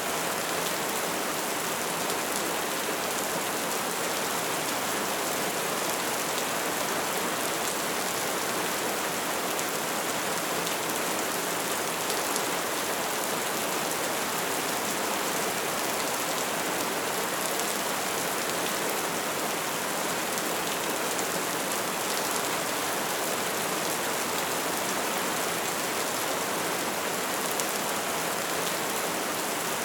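Wood fire burning with dense, steady crackling and a constant rushing hiss of flames.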